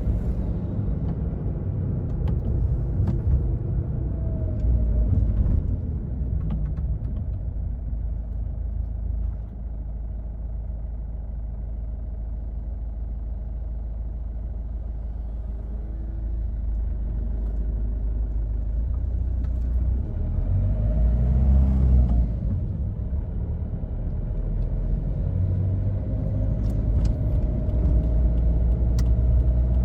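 2005 Toyota Yaris's 1.4-litre four-cylinder turbodiesel engine and tyre noise, heard from inside the cabin while driving: a steady low rumble. It eases off about ten seconds in and swells again a little past the twenty-second mark.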